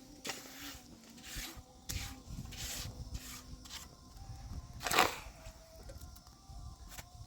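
A series of short scraping or rubbing strokes at uneven intervals, with one louder stroke about five seconds in.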